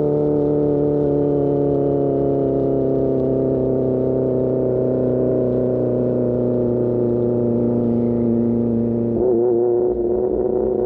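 Motorcycle engine through an Austin Racing GP1R exhaust, its note slowly falling as the revs drop, then wavering and changing about nine seconds in.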